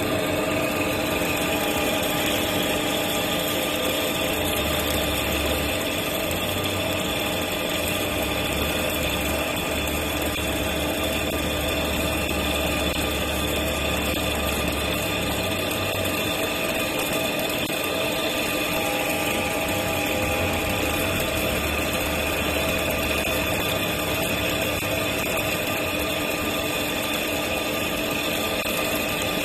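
CNC machining equipment running steadily: a constant mechanical hum with several held whining tones, and a low rumble that comes and goes.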